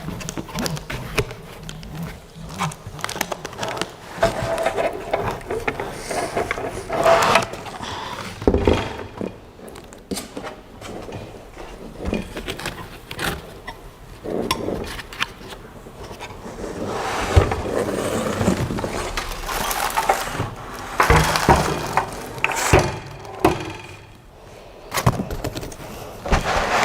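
Handling noise from a tightly packed shipping box: irregular knocks, clicks, scraping and rustling of packaging as parts are worked loose and pulled out.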